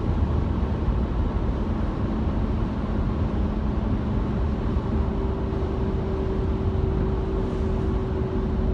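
Road and engine noise inside a moving car's cabin: a steady low rumble, with a faint steady hum joining about halfway through.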